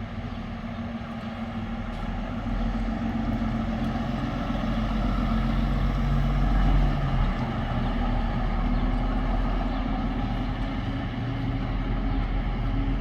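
A heavy vehicle running close by with a steady low hum. It grows louder about two and a half seconds in and is loudest around the middle, then eases slightly.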